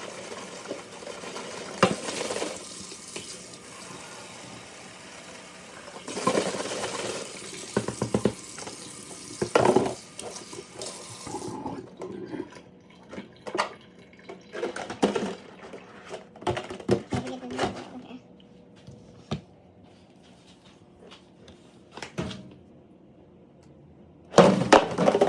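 Water running steadily from a kitchen tap into a sink, with knocks and clunks of containers being handled. The water cuts off abruptly about halfway through, and scattered knocks follow, with a louder clatter near the end.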